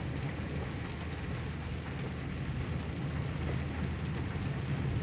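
Steady traffic noise in heavy rain: a continuous low rumble of vehicles with the even wash of rain and wet road.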